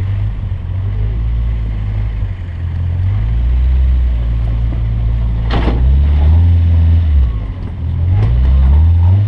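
Toyota Sprinter Trueno engine being driven hard on track, heard from a camera mounted on the outside of the car, its pitch stepping up and down with throttle and gear changes. A sharp knock about five and a half seconds in and a smaller one near the end.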